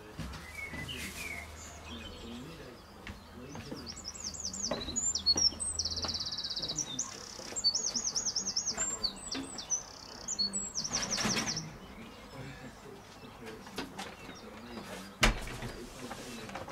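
A songbird singing a run of rapid, high trills and chirps for several seconds, with a single sharp knock near the end.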